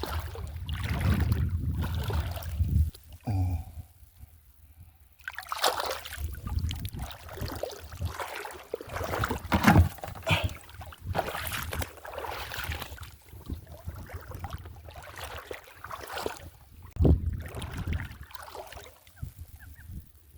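Shallow seawater sloshing and splashing in irregular bursts as someone wades and grabs in it, with a low rumble during the first three seconds.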